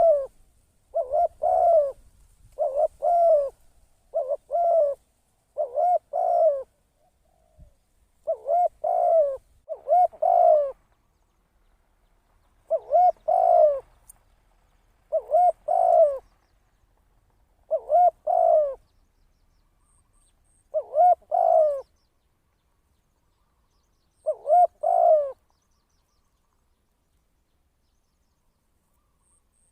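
A spotted dove cooing: about a dozen short phrases of two or three coo notes each, coming about once a second at first, then spreading out to one every two or three seconds. The cooing stops about 25 seconds in.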